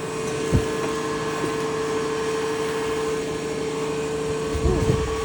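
A vehicle running while being driven, with a steady whine over its running. There is a low thump about half a second in and a few more near the end.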